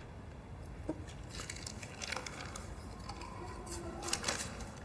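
Faint rustling and a few light knocks and clicks of objects being handled.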